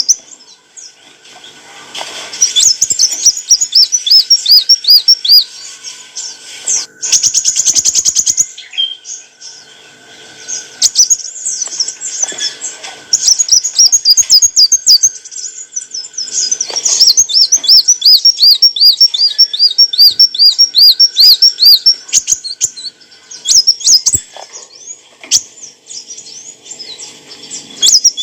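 Kolibri wulung sunbird singing: long runs of high-pitched, rapidly repeated twittering notes with a few short pauses, and a brief buzzy rattle about seven seconds in.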